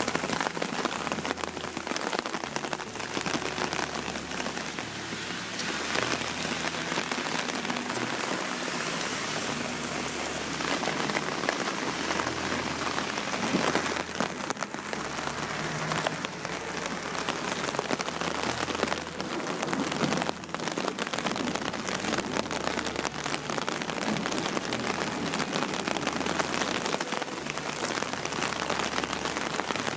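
Heavy rain falling on a transparent plastic umbrella: a dense, steady hiss of countless separate drop hits.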